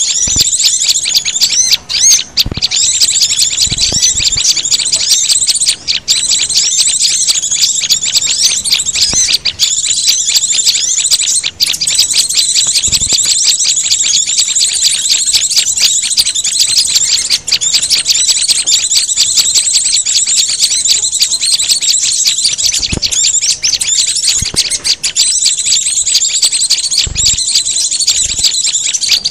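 Bird-lure recording of layered small songbird calls, the mix named as white-eye, prinia, sunbird and flowerpecker: a dense, continuous stream of rapid high-pitched chirps and trills, with a few brief gaps.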